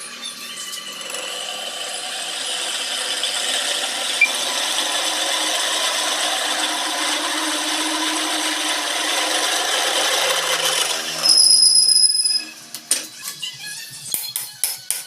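A power tool working metal, running steadily and building in level for about ten seconds, then a brief loud high-pitched squeal, followed by scattered light clinks and clicks.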